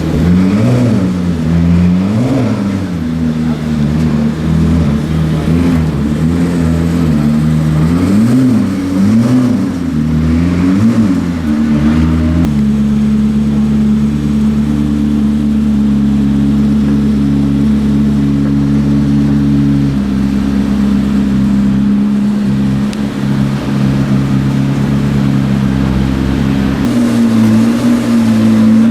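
McLaren P1's twin-turbo V8 revving in a series of short blips, the pitch rising and falling, then settling to a steady idle about halfway through.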